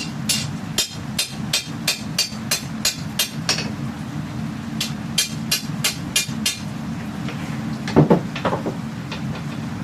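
Hammer blows on steel at the anvil while forging a katana blade: a run of about ten quick strikes at roughly three a second, a pause, then about six more. Near the end comes one louder, duller knock. A steady low rumbling noise runs underneath.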